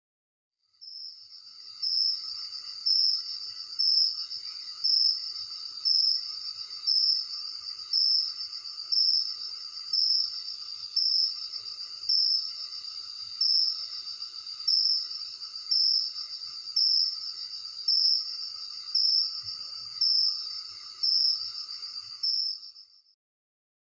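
Cricket trilling at night: a steady high-pitched trill with a louder pulse about once a second. It starts about a second in and cuts off suddenly near the end.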